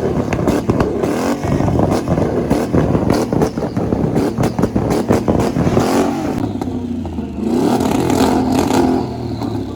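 Vehicle engines revving hard, with many sharp crackling pops through the first part. From about six seconds in, one engine's pitch rises and falls repeatedly before the sound drops off near the end.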